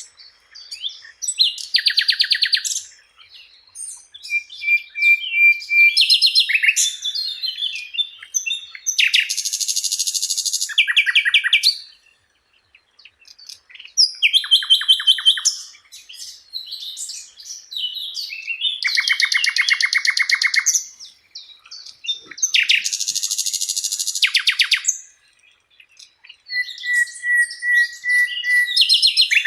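Sikatan Londo flycatcher singing a varied, chattering song: short buzzy bursts, fast rattling trills and steady whistled notes around 2 kHz, delivered in phrases of one to two seconds with brief pauses between.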